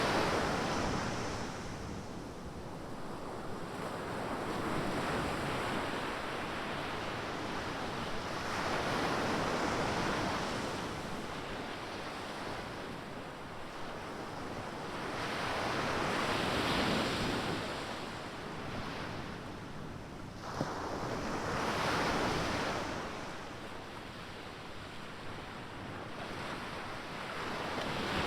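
Ocean surf breaking on a beach, the rushing noise swelling and fading as each wave comes in, about every five to eight seconds.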